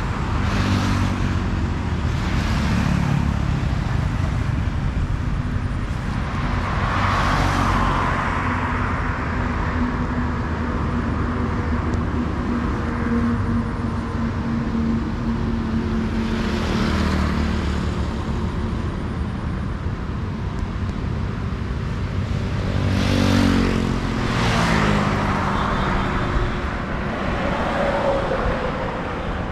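Road traffic: a heavy engine runs with a low rumble whose pitch rises and falls, while vehicles pass in swells of rushing noise about a second, seven, seventeen and twenty-three seconds in.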